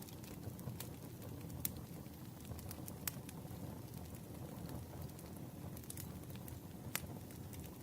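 Campfire burning: a steady low rush of flames with irregular sharp crackles and pops of burning wood, the loudest about three seconds in and again near the end.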